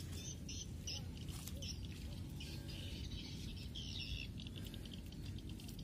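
Small birds chirping: short, high chirps repeated every few tenths of a second, busiest about four seconds in, over a steady low background rumble.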